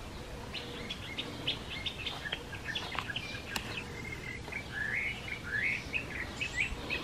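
Songbirds chirping: many short, high chirps scattered throughout, with a few slurred, sweeping notes about five to six seconds in.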